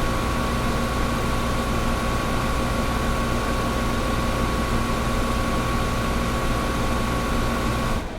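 Air conditioner running steadily: a hiss of moving air with a steady electric hum in it. Near the end the sound drops away abruptly.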